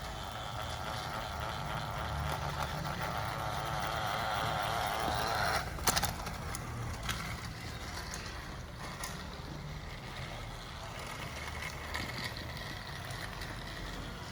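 Battery-powered TrackMaster toy train's motor whirring and rattling as it runs along plastic track, growing louder over the first few seconds. A sharp clack comes about six seconds in, after which the running is quieter.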